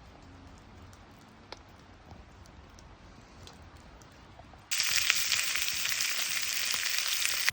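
Wood campfire crackling faintly with sparse pops, then, about two-thirds of the way in, a sudden much louder dense crackling hiss that cuts off abruptly.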